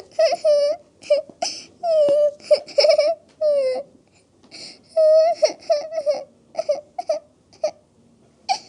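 A young girl crying and sobbing: a string of short, high-pitched cries broken by brief pauses, several of them falling in pitch.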